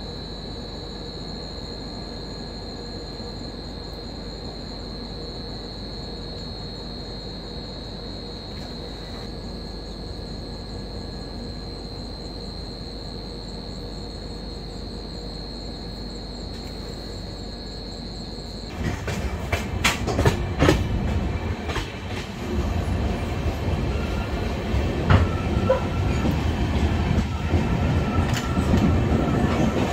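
A steady hum with a constant high whine for the first two-thirds. About 19 seconds in, it gives way to a much louder passenger train running on the rails, with a rattling clatter of clicks and knocks from the wheels.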